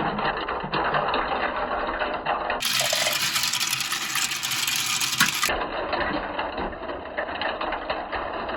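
Many marbles rolling and clattering down a plastic Kumikumi Slope marble-run track: a dense, continuous rattle of clicks. About three seconds in it turns brighter and thinner for a few seconds, then returns to the fuller clatter.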